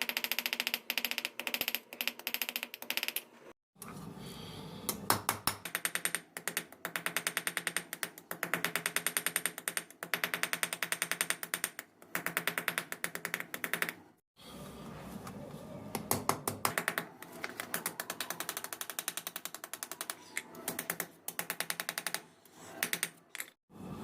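Hammer striking steel in quick, evenly spaced metallic blows, many a second, in runs that break off abruptly; a steady low hum sits beneath.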